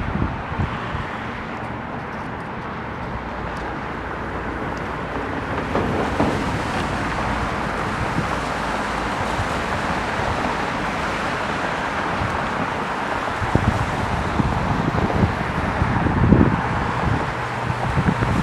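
Wind gusting on the microphone over a steady outdoor rush of airport and road traffic noise that slowly swells.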